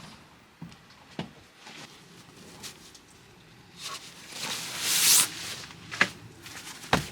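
Small clicks and knocks of things being handled, with a rustling swell that builds about four seconds in and peaks near five, followed by two sharp clicks near the end.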